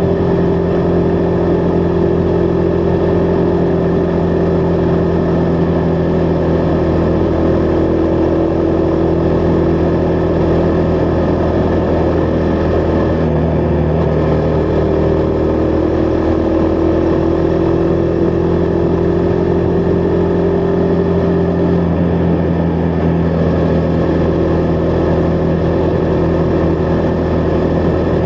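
Husqvarna Vitpilen 401's single-cylinder engine running steadily under way, its pitch easing slightly up and down.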